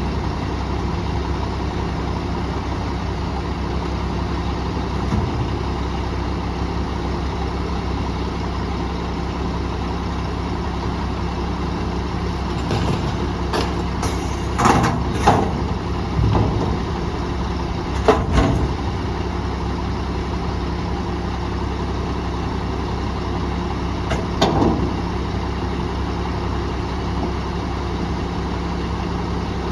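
Garbage truck engine idling steadily, with several loud bangs and clatter: a cluster about halfway through, another a few seconds later, and a last one near the end.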